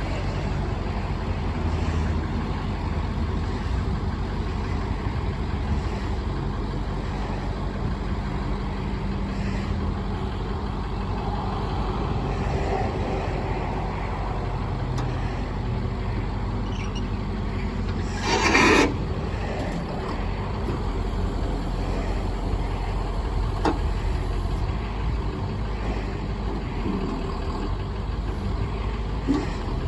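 1996 International S4700 truck's diesel engine idling steadily, with a short loud hiss about eighteen seconds in and a couple of faint clicks later on.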